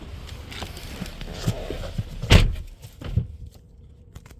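A car door or bonnet on a BMW 5 Series GT slammed shut with a loud thud about two seconds in, then a smaller thud a second later. After it the outside noise drops away, leaving only a faint steady hum of the 3.0 L turbocharged straight-six idling quietly, heard from inside the closed cabin.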